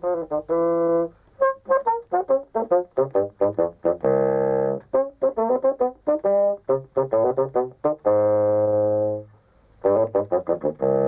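Music on a single wind instrument with a reedy, brass-like tone: quick runs of short detached notes broken by several long held notes.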